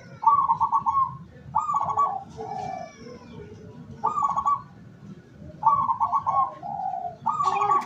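Zebra dove (perkutut) cooing: five phrases of rapid, stuttering coo notes, each about a second long, repeated every second and a half or so.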